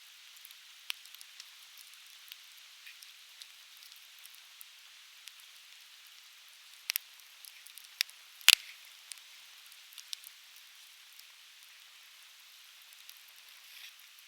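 Conifer firewood burning and crackling, with scattered sharp pops over a steady high hiss; the loudest, deepest pop comes about eight and a half seconds in.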